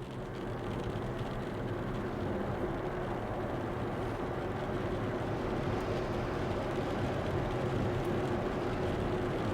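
Steady mechanical rumble of a vehicle running, with a low droning hum under it, fading in at the start.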